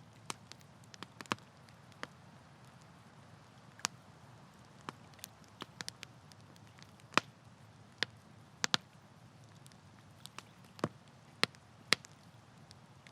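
Campfire of burning wood crackling, with irregular sharp pops and snaps over a soft steady hiss of flame.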